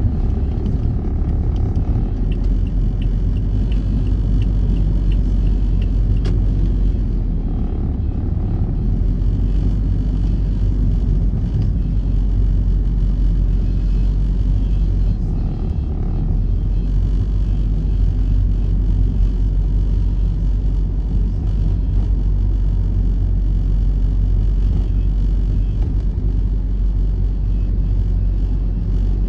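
Steady, loud low rumble of a road vehicle, even throughout, with no rises or drops.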